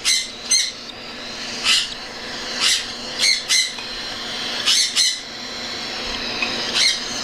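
Baby cockatiel chicks giving harsh, rasping food-begging screeches, a string of short calls about one or two a second.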